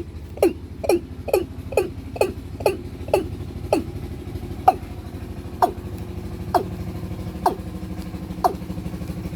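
Watercock (kora) calling: a long series of short, downward-sliding notes, about two a second at first, then slowing to about one a second partway through. A steady low hum runs beneath the calls.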